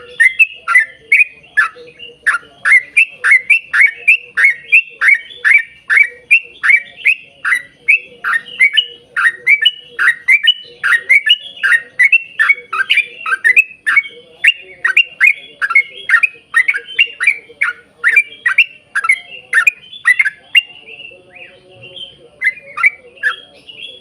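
Yellow-vented bulbul (trucukan) singing a long rapid series of short, sharply falling notes, about two to three a second, broken by a brief pause near the end.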